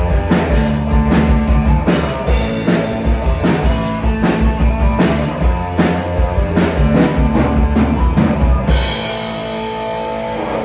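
Live rock band playing with a driving drum-kit beat; about nine seconds in the drums stop and a final held chord rings out and fades.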